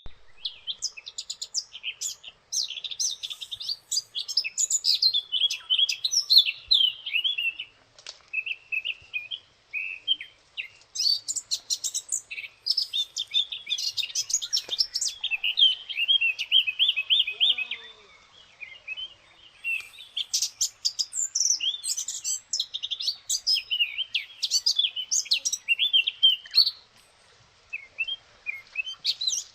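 Small birds chirping and twittering in quick, overlapping calls, with a few short lulls.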